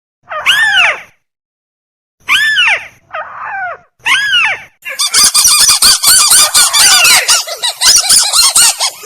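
Lure recording of a rail known as burung tikusan calling. Single arching nasal calls come every second or two, then about five seconds in it breaks into a rapid chattering run of many notes.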